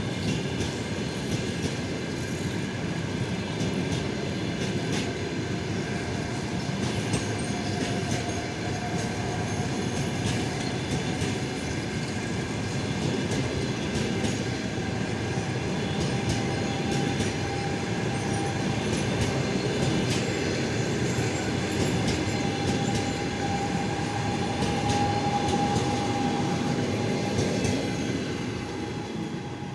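Passenger coaches of a departing train rolling past: a steady rumble with wheels clicking over rail joints and a thin steady wheel squeal. The sound fades near the end as the last coach goes by.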